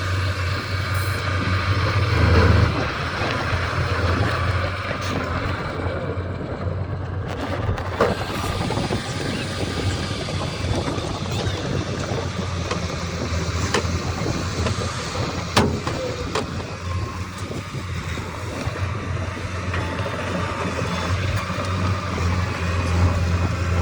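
Engine of heavy earthmoving machinery running steadily with a low rumble, with a few sharp knocks along the way.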